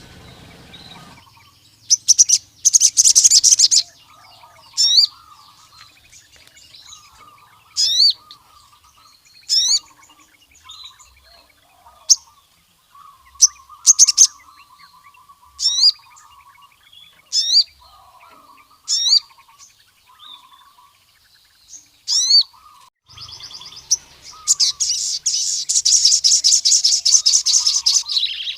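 Male crimson sunbird (sogon) singing: a series of sharp, high, rising chirps about every one and a half seconds, with rapid high trills about two seconds in and again near the end.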